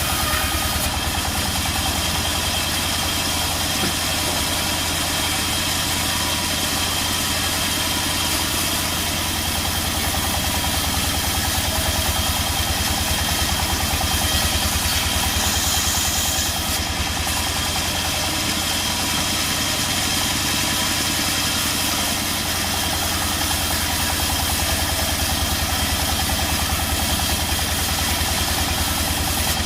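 An engine idling steadily with a fast, even low throb. There is no change in load or speed.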